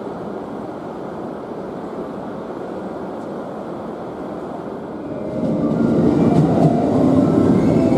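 Passenger train running past a station platform, a steady rumble that grows louder about five seconds in, with several steady tones rising over it as it nears.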